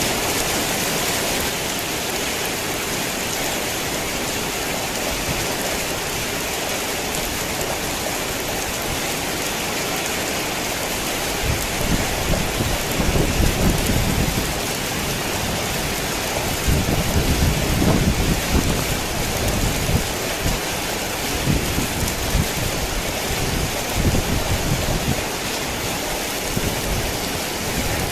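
Heavy rain falling in a steady hiss, with low rolling rumbles of thunder a little before halfway through and again just past the middle, then a few weaker rumbles.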